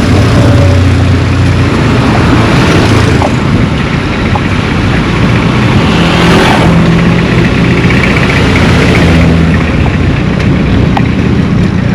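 Motor vehicle engines running on a road, with one vehicle passing close by and loudest about halfway through.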